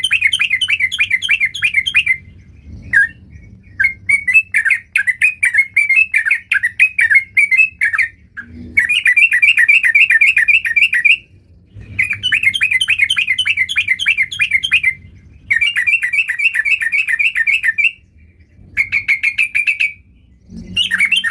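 Yellow-vented bulbul (trucukan) singing loudly in repeated bouts of fast, bubbling notes, each bout lasting a few seconds and broken by short pauses.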